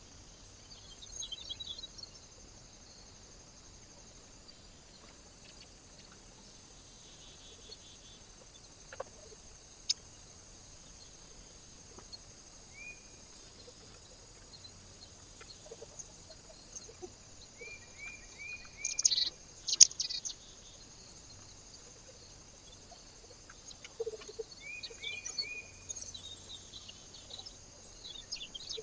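Small birds calling: short runs of three or four quick chirps and faint high twittering, with a few sharp clicks, the loudest about two thirds of the way through.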